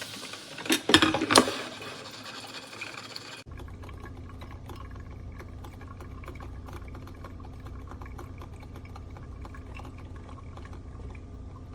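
Black+Decker 12-cup drip coffee maker brewing, coffee pouring and dripping into the carafe with a hiss. A few loud knocks come about a second in. Shortly after, the sound changes abruptly to a steady low hum with faint ticking drips.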